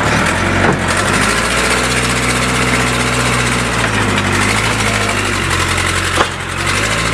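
An engine running steadily at a loud level, its pitch rising and falling a little. There is a sharp knock about six seconds in.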